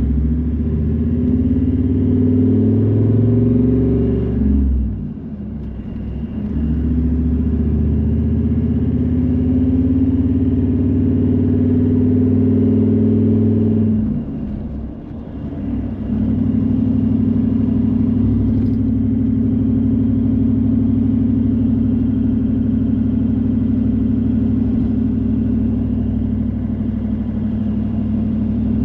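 Car engine running while driving, with road noise. The engine note breaks off and drops twice, about four and a half and fourteen seconds in, then settles into a steady, even drone.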